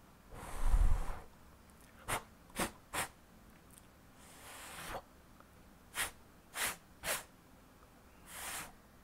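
Sound-effect soundtrack of short noisy puffs. A swelling whoosh with a low thud comes about a second in, then three quick sharp puffs, then a softer whoosh, then three more quick puffs, and a last whoosh near the end.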